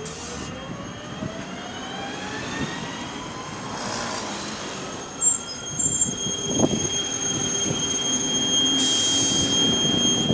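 A bus pulling away, its drive giving a rising whine that climbs in pitch over the first few seconds while the bus grows louder. A few sharp knocks come about five seconds in.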